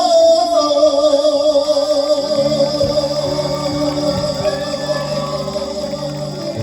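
Live band music with a single long note held and wavering slightly over sustained chords. Low bass notes come in about two seconds in.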